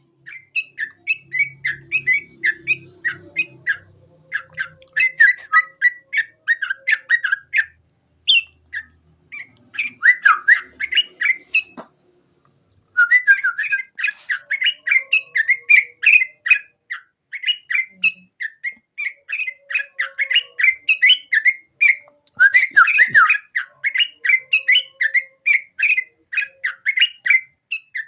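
Yellow-vented bulbul (cucak trucuk) singing a loud, rapid, chattering song of many short warbled notes, broken by a brief pause about twelve seconds in.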